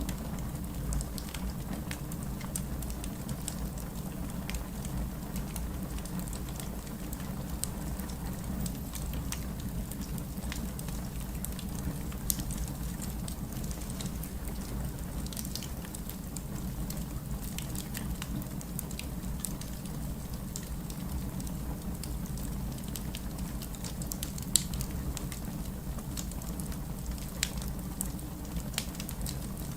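Wood fire crackling and popping with scattered sharp snaps, over a steady bed of rain.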